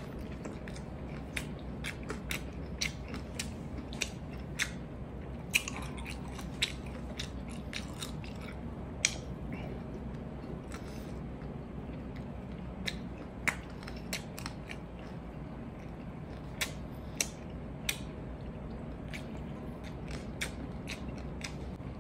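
Close-miked eating sounds: chewing with irregular wet mouth clicks and smacks as kinilaw of raw fish and rice is eaten by hand, over a steady low hum.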